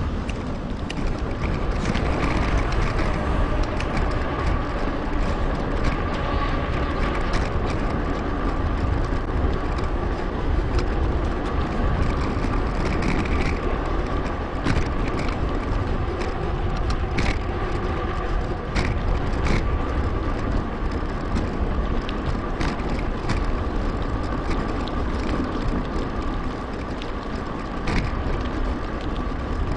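Riding noise of a Merida Big.Nine hardtail mountain bike on a paved path: a steady low rumble of tyres and wind on the microphone, with frequent sharp clicks and rattles from the bike over bumps and a faint steady whine.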